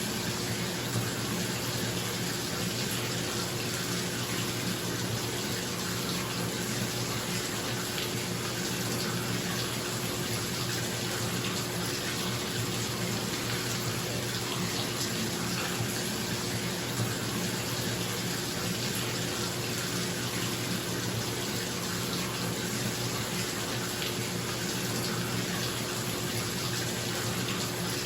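Bathtub tap running, water pouring steadily into the tub with an even rush, and a bathroom exhaust fan humming underneath.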